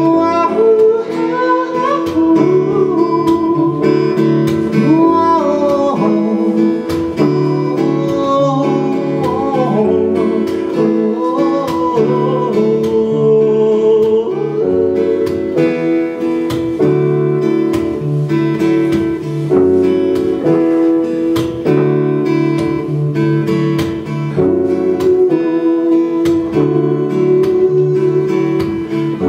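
Acoustic guitar playing an instrumental passage of a pop song, chords with a wavering melody line on top.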